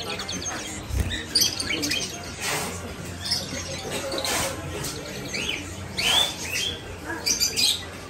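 A flock of small caged birds, finches among them, chirping and calling over one another in a steady busy chatter of short, quick calls, with now and then a harsher squawk.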